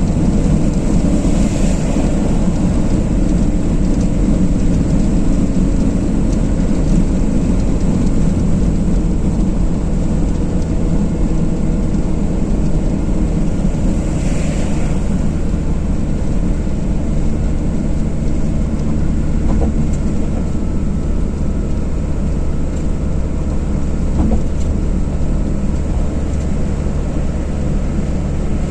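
Car driving at road speed: a steady rumble of engine and tyre noise with a hiss of air over it. Twice the hiss swells briefly, first near the start and again about halfway through.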